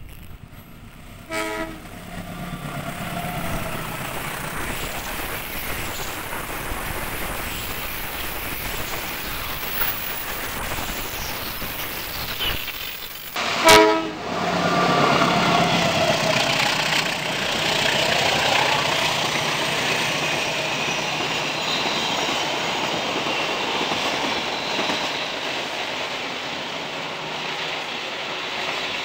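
A diesel locomotive gives a short horn blast about a second and a half in, followed by the steady running noise of a train on the line. After a break, a second, louder horn blast comes just before the middle, then the steady rumble of a train coming through a tunnel.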